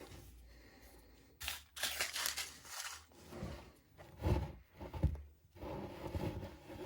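Plastic packaging crinkling and tearing as a filament spool is handled, in irregular rustling bursts with a couple of soft low knocks midway.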